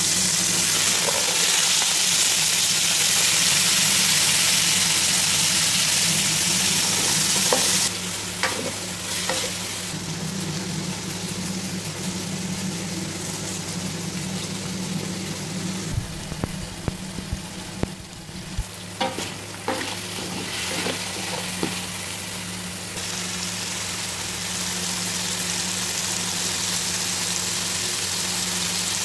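Chicken pieces and cumin seeds sizzling in hot oil in a metal pan, loudest for the first several seconds. The sizzle then drops, with a few sharp clicks through the middle as chicken and vegetables fry together, and it builds again near the end.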